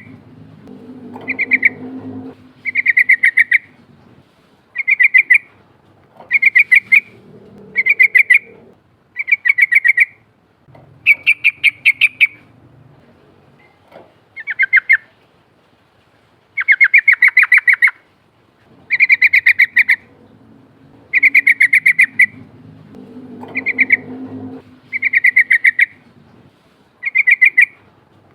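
Yellow-vented bulbul (trucukan) singing a long series of short, rapid chattering phrases, one every second or two, with a brief pause about halfway through.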